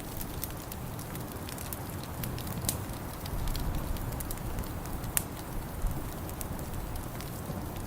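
Wood fire crackling in a fireplace, with irregular sharp pops and snaps (the loudest about 2.7 and 5.2 seconds in) over a steady low rumble.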